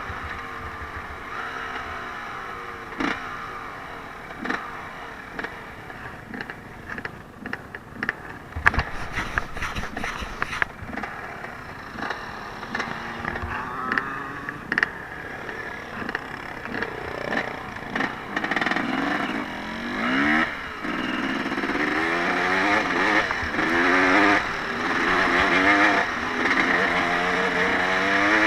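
Off-road vehicle engine running, at first fading away, with scattered sharp knocks in the middle; then it revs up and down again and again, growing louder over the last ten seconds or so.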